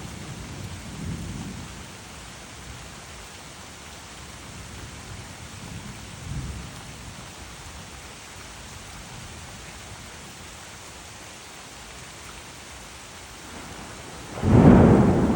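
Steady rain with low rumbles of distant thunder, then a sudden loud thunderclap near the end.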